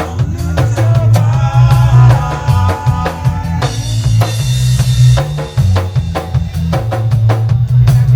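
Reggae band playing: a deep, heavy bass line under a drum kit with snare and rimshot hits. A melody line runs through the first few seconds, and a cymbal wash comes in about four seconds in.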